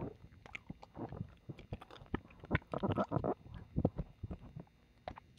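Close-miked wet mouth sounds of ASMR ear licking and kissing: irregular smacks and clicks, with a few short slurping patches in the middle.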